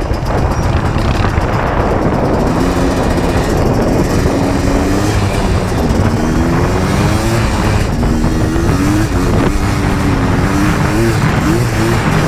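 ATV engine running under way, its revs rising and falling again and again as the throttle is worked, over a steady rumble of wind and terrain noise.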